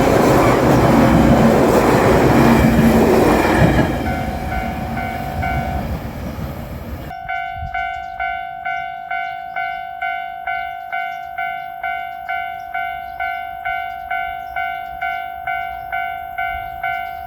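JR Shikoku 8000 series limited express electric train running over the level crossing, its wheel-and-rail noise loud at first, then fading and dropping away about seven seconds in. The crossing's warning bell rings on through the rest, an even 'kan-kan' just under two strikes a second.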